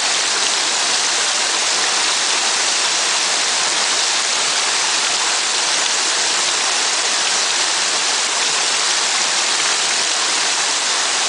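Waterfall pouring steadily, an unbroken rush of falling water that is strongest in its higher, hissing part.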